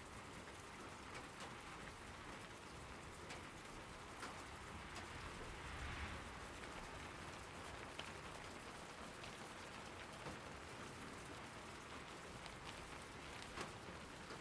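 Steady rain falling, with individual drops ticking sharply on a nearby surface now and then, and a brief swell of heavier sound about six seconds in.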